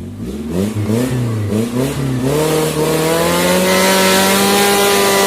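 Suzuki Jimny 4x4's engine revving off-road. It blips up and down a few times for about two seconds, then climbs and holds a high, steady rev.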